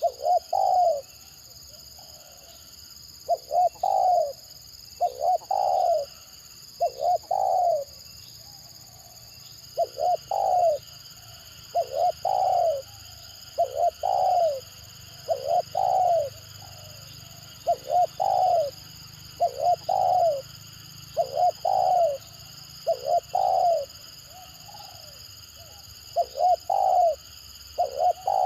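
Spotted dove (tekukur) cooing in short, choppy clusters of two or three notes, repeated again and again about every second or two: the stuttering 'gagap' call.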